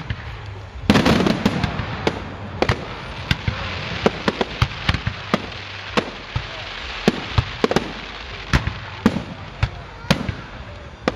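Aerial fireworks display: shells bursting in a rapid, irregular string of bangs, with a heavy volley about a second in followed by a few seconds of dense crackling.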